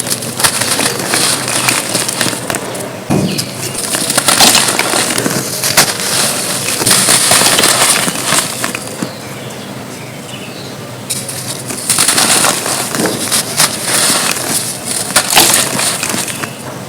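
Dry, gritty red dirt cones crunching and crumbling as they are crushed, a dense crackle of small snaps and sifting grit. It eases off for a couple of seconds about halfway through, then picks up again.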